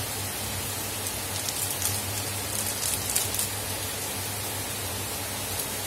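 Chopped vegetables sizzling as they fry in a pan: a steady hiss with faint crackles.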